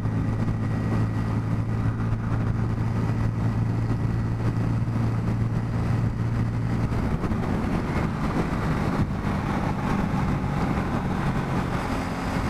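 Bajaj Pulsar N250's single-cylinder engine running steadily while the motorcycle is under way, over a steady rush of wind and road noise. The engine's note becomes less steady from about seven seconds in.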